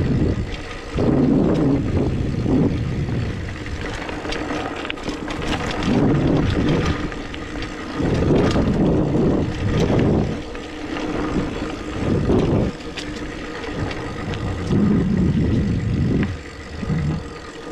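Hardtail mountain bike riding a dirt trail: the bike clicks and rattles over the ground, and wind rushes on the microphone in swells every second or two.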